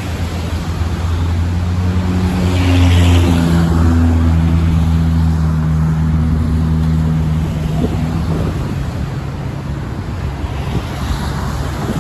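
Road traffic on the bridge below: a motor vehicle's low droning hum that swells a few seconds in and fades away, over steady wind noise.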